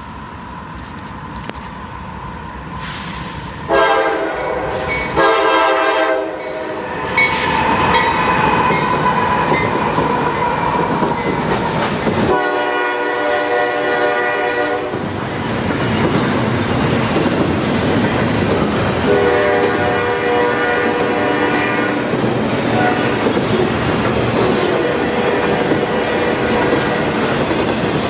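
A diesel freight train's locomotive air horn sounds two short blasts about four seconds in, a longer one around twelve seconds and another near twenty, as the train comes up and passes. Steady train rumble with the clickety-clack of wheels over rail joints.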